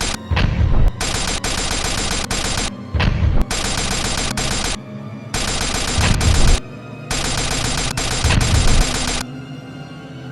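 Sound-effect machine-gun fire in long bursts of a second or two each, with a deep boom in several of them, over dramatic background music. The gunfire stops about a second before the end, leaving the music.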